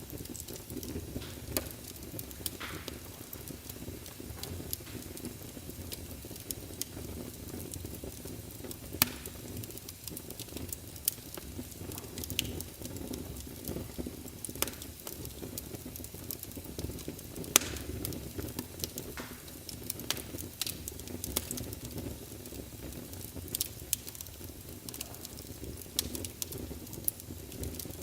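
Wood logs burning in a fireplace: frequent sharp crackles and pops at irregular intervals over a steady low rumble of the flames.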